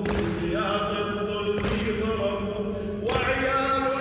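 Husseini latmiya: a man chanting a Shia lament in long, held notes, with chest-beating strikes about every one and a half seconds.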